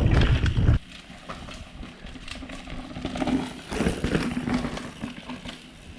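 Mountain bike on a dirt forest trail: heavy wind and trail rumble on the camera that drops off abruptly under a second in, followed by quieter knocks, clicks and rattles of the bike over the ground.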